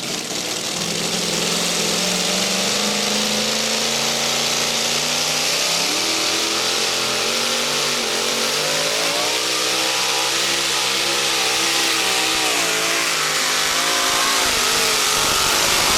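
Modified two-wheel-drive pulling truck's engine running flat out at high revs while hauling the weight-transfer sled, its pitch climbing in the first seconds and then rising and falling repeatedly from about the middle on, over a heavy rushing noise.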